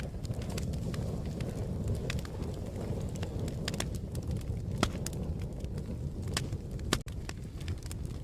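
Wood fire crackling: a steady low rumble of flames with scattered sharp pops and snaps. The sound cuts out for an instant about seven seconds in.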